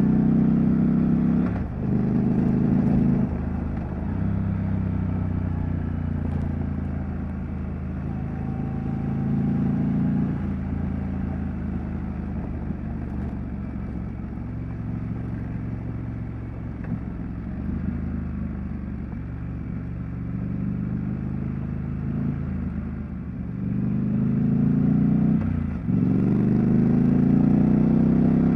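Triumph Street Scrambler's 900 cc parallel-twin engine and exhaust under way, revs rising under acceleration and dropping sharply at each upshift, a few times, with steadier cruising in between.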